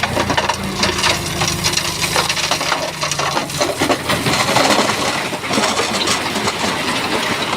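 Rocks clattering and grinding against each other as a Shantui bulldozer pushes them, over the steady sound of the dozer's diesel engine. The engine tone drops away about three and a half seconds in while the clatter of stones goes on.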